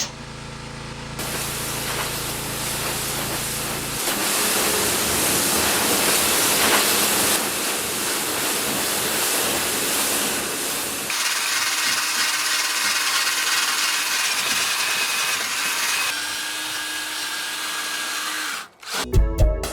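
Workshop power tools running in a series of short, abruptly changing stretches of steady noise. Music comes in near the end.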